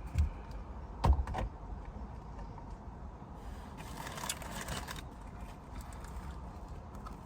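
Two short knocks about a second apart near the start, then a couple of seconds of rustling handling noise in the middle, over a steady low rumble inside a car.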